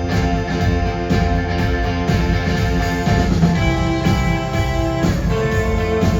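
Live band playing an instrumental passage with guitars to the fore over bass and drums, steady and loud.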